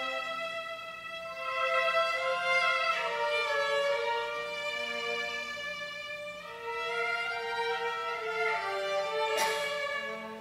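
Violin playing slow, sustained notes that change every second or two. There is a brief click near the end.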